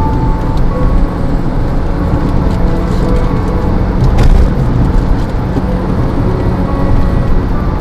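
Steady low rumble of a vehicle driving, with road and wind noise.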